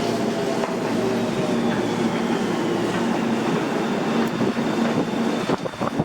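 Tobu Tojo Line electric train running on the track, a steady rumble with a motor whine that slowly falls in pitch, and a few knocks near the end.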